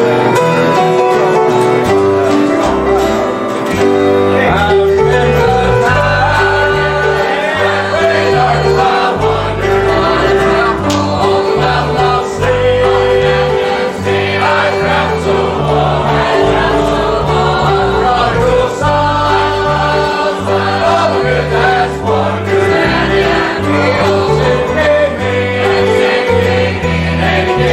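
Gospel song: voices singing with instrumental accompaniment over a moving bass line.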